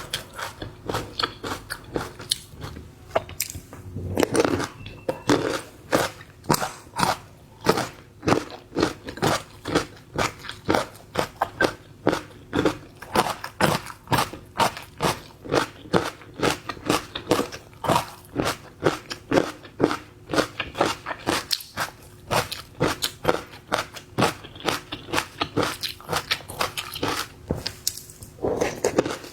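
Close-miked mouth sounds of a person eating seafood: steady chewing with crisp, crunchy clicks, about two to three a second.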